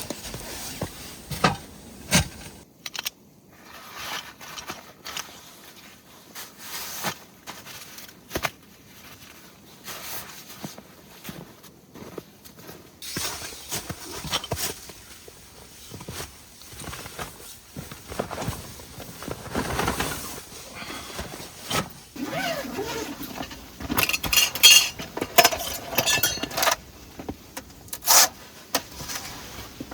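Irregular clinks, knocks and rustles of camp gear being handled, with a denser run of sharp metallic clinks a little past the middle.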